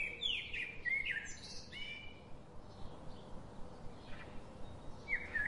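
Wild birds chirping, a quick run of short sweeping calls, busiest in the first couple of seconds and again near the end, over a steady outdoor hiss.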